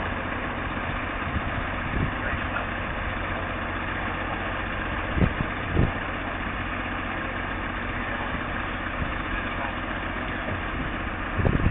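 A car engine idling steadily, with two brief low thumps about five and six seconds in.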